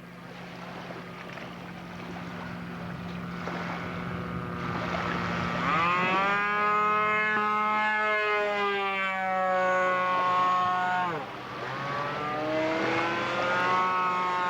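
Small model-aircraft engine on a radio-controlled float plane flying, its note rising sharply as it comes close about halfway through, bending as it manoeuvres, dropping briefly near the end, then rising again.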